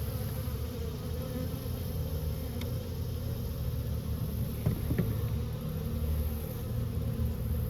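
Swarm of honeybees buzzing steadily, a colony stirred up during removal from brickwork, with a couple of faint clicks about five seconds in.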